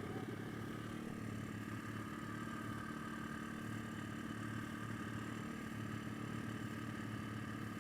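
Small pit bike engine idling steadily at a constant, even pitch.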